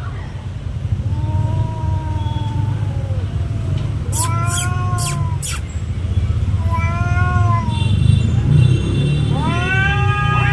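Cats yowling at each other in a territorial standoff: about four long, drawn-out calls, each rising and then falling in pitch, over a steady low rumble.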